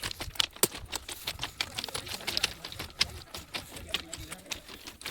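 A rapid, irregular clatter of sharp clicks and crackles, several a second.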